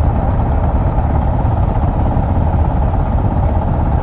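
Motorcycle riding along at a steady pace, its engine and road noise a loud, even low rumble.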